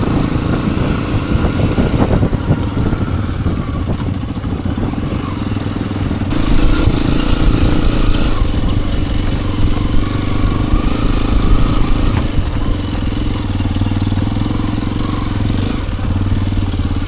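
Hero XPulse 210's single-cylinder engine and exhaust running under way, the revs rising and falling, louder for a stretch in the middle.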